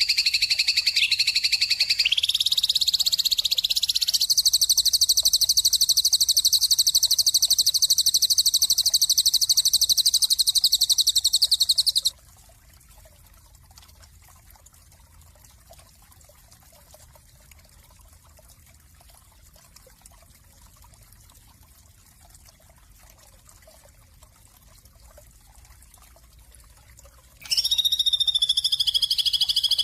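Bird trilling, a rapid high-pitched pulsing chirp that runs for about twelve seconds and cuts off abruptly. A quiet gap of about fifteen seconds follows, and the trill starts again near the end.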